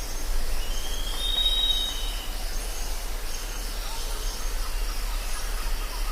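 Jungle ambience: insects chirping high and steady, with a long whistled call that rises and then holds from about half a second in to about two seconds in, over a steady low hum.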